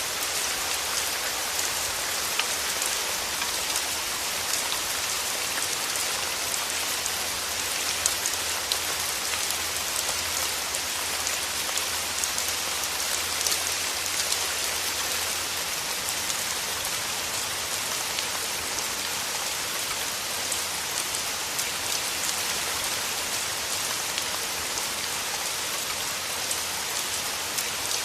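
Steady rain falling through forest trees, an even patter with many separate drops ticking on leaves.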